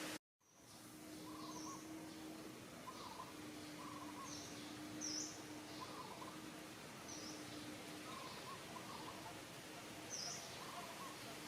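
Faint short high bird chirps recurring every second or so, with some lower short calls, over a steady outdoor background hiss and a faint hum that comes and goes. The sound cuts out completely for a moment just after the start.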